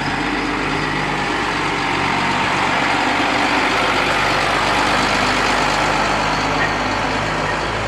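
Large truck's engine running steadily, a low hum under a rushing noise that swells a little toward the middle and eases near the end.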